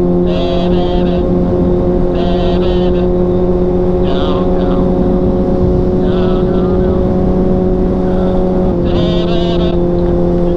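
Motorcycle engine running at a steady pitch over a constant rushing noise, heard from the rider's helmet. Short, high, wavering sounds come and go every second or two above the drone.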